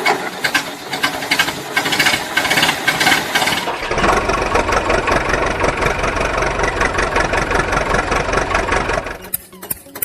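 An engine running with a rapid, rough pulse, settling about four seconds in into a steadier, deeper run, then dying away near the end.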